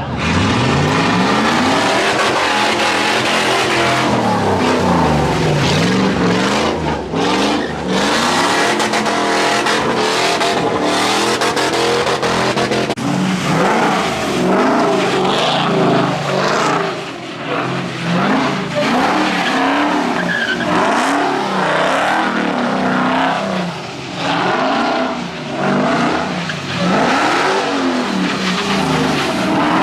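A car engine revving hard, its pitch rising and falling again and again, while the tyres spin and skid on wet pavement, as a car does donuts.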